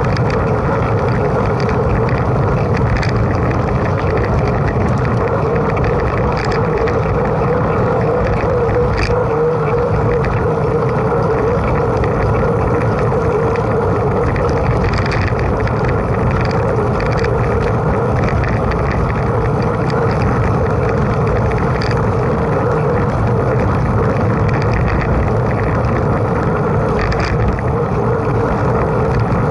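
Steady rumble of a mountain bike in motion: wind on the microphone mixed with tyres rolling over the track, with a few faint ticks scattered through it.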